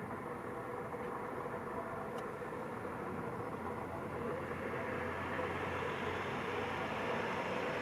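Distant jet airliner overhead: a steady rumbling rush of noise that slowly grows louder and brighter.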